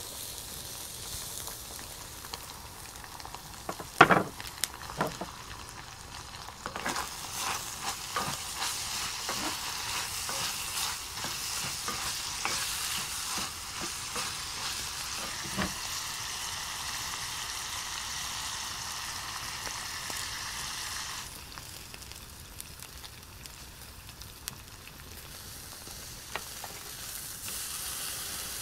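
Diced pancetta sizzling as it fries in a cast-iron pan, stirred with a wooden spoon, along with steaks sizzling on a charcoal grill. Sharp knocks of utensils on the pan and grill run from about four seconds in through the middle; the first is the loudest. The sizzle grows denser after about seven seconds and eases off after about twenty.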